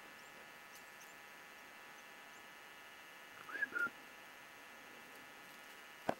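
A short bird call about halfway through, two quick gliding notes, over a faint steady hum. Near the end there is a single sharp click.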